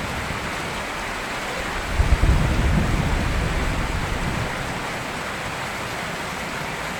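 Steady rain falling, with a rumble of thunder starting about two seconds in and fading away over the next two seconds.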